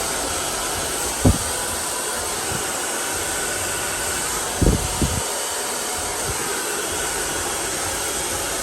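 FEIL plus infrared hair dryer blowing steadily, with a few dull low thuds about a second in and twice near the middle.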